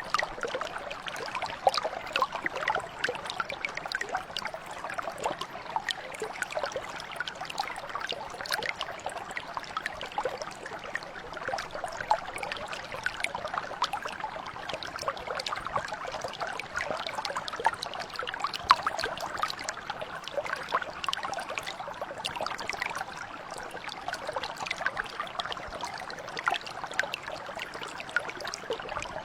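A small stream or brook flowing and trickling steadily, with many quick splashes and bubbling droplets over a continuous rush of water.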